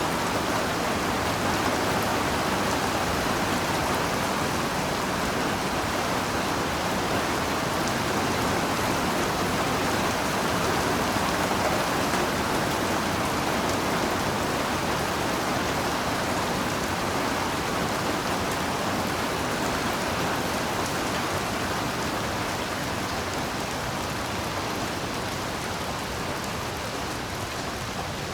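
Heavy rain falling steadily, a dense even hiss of drops with no single event standing out, easing slightly near the end.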